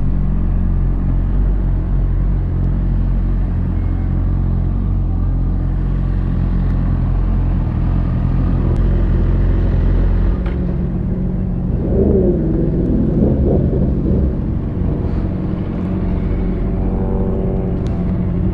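Motorcycle engine idling with a steady low rumble. About twelve seconds in, its pitch wavers briefly.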